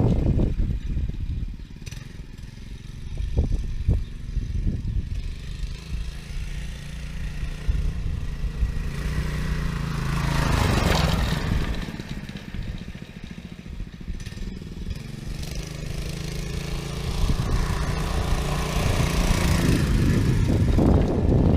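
Small single-cylinder petrol engine (a 6.5 hp Lifan driving through a torque converter) of a homemade fat-tyre motorbike, running as the bike is ridden. It swells louder about ten seconds in and again near the end.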